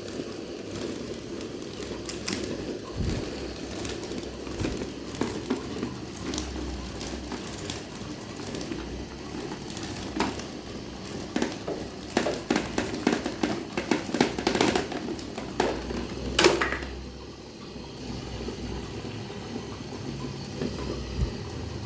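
Electric fan with a homemade propeller running with a steady hum, with irregular clicks and rattles that bunch up in the second half and one sharp loud click near the end.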